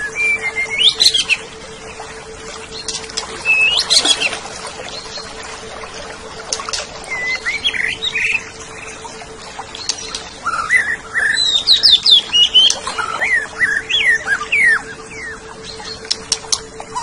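Cucak ijo (green leafbird) singing: several bursts of varied sweeping whistles and quick chattering notes, busiest in the second half. A steady low hum runs under it.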